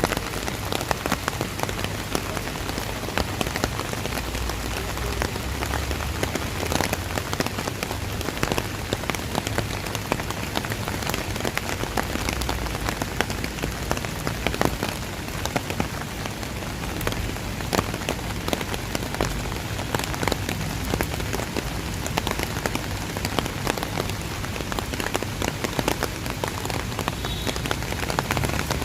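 Steady rain falling, with many sharp drop hits close by and a low rumble underneath.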